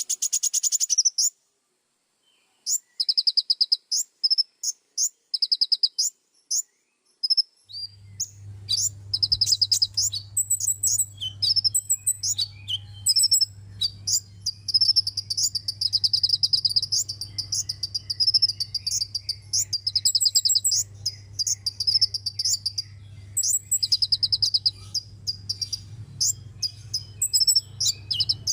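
Sunbird song: rapid, high-pitched trills and chirps in short repeated phrases with brief pauses between them. A steady low hum sits underneath after the first several seconds.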